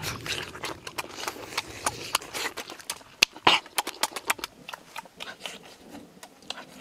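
Wet mouth sounds of eating grilled frog: irregular chewing, lip-smacking and sucking clicks, with one sharper click about three seconds in.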